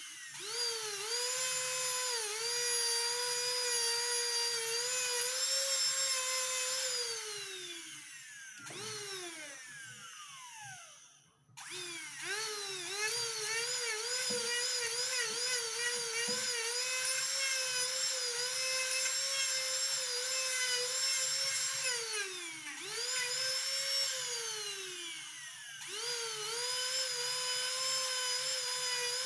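A jeweller's high-speed rotary tool runs with a steady high whine while grinding and polishing an earring. Its pitch dips over and over as it is pressed onto the work. It winds down and stops about a third of the way in, starts up again a second later, and slows and speeds back up twice near the end.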